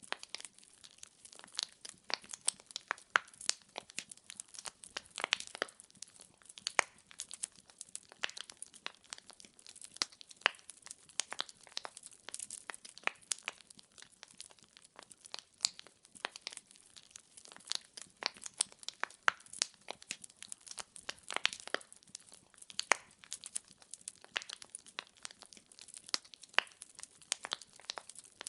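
Wood fire crackling: burning firewood giving off many sharp, irregular pops and snaps over a faint steady hiss.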